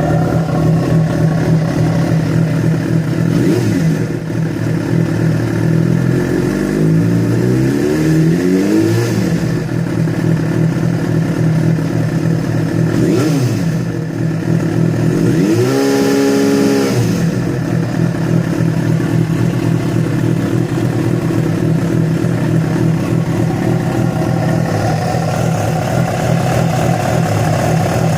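Yamaha FZ6 inline-four engine idling, revved up and back down about three times in the first part. This is the strange engine noise that began after the bike ran about 70 km on two cylinders because of a failed ignition coil connector.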